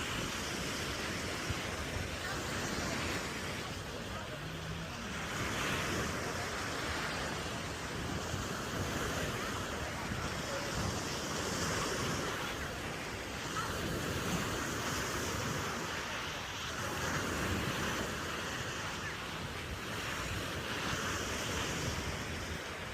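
Ocean surf washing onto a sandy beach: an even rushing that swells and eases every few seconds, with wind on the microphone.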